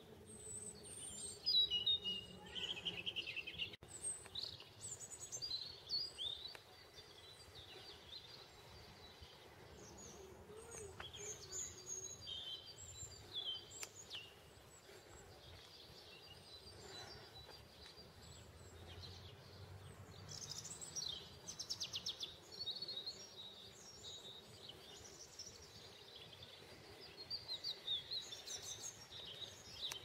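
Birds chirping and singing in many short, high calls and trills, loudest about two seconds in, over faint outdoor background noise.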